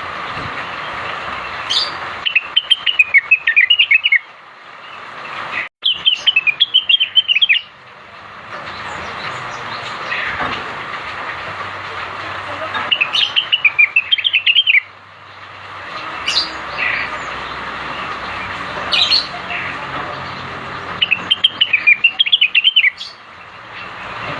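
Cucak wilis (leafbird) singing: four phrases of rapid, chattering notes about two seconds each, with single sharp rising whistles between them, over a steady hiss.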